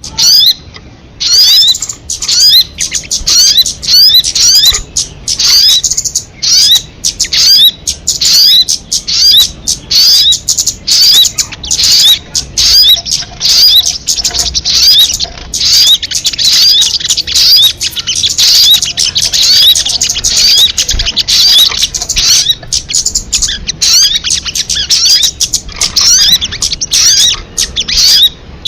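Recorded calls of the sogon (kamade) bird: a fast, dense run of short, high chirps repeated many times a second, with only brief pauses.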